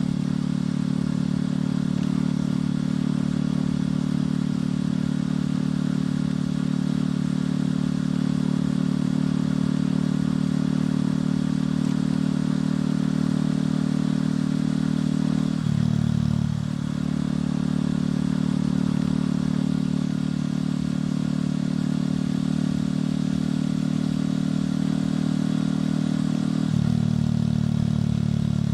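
Motorcycle engine and exhaust running steadily while riding. The engine note dips and recovers about halfway through, and drops in pitch near the end.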